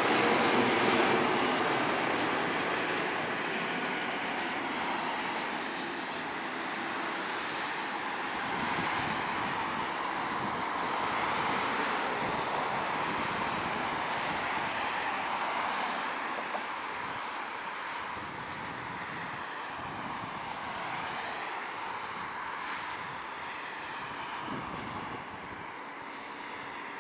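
Airbus A330-200 jet engines on landing: a steady jet rush with a falling whine at the start, fading gradually as the airliner moves away.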